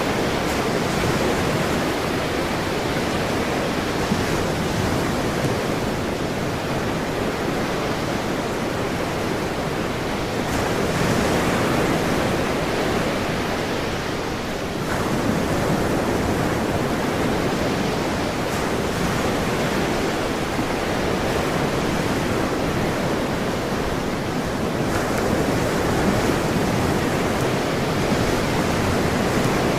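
Ocean surf: a steady rush of breaking waves that swells and eases slowly, with a brief lull about halfway through.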